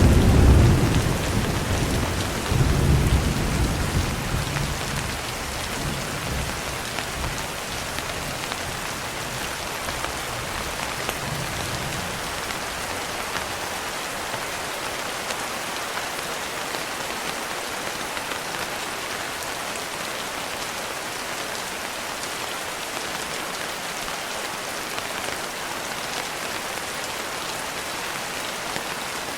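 Steady rain pattering on a window, with a low roll of thunder right at the start and a second about three seconds in, dying away over the next several seconds.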